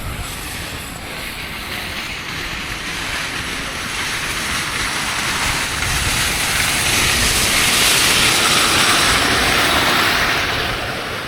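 A vehicle passing by: a rushing noise that builds over several seconds, is loudest about eight seconds in, then fades near the end.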